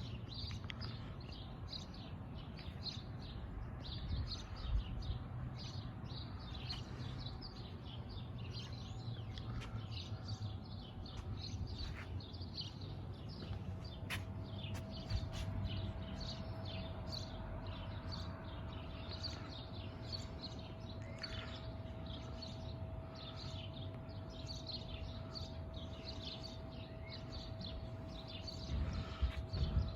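Many small birds chirping and twittering in a continuous chorus over a low background rumble, with a faint steady hum joining about halfway through.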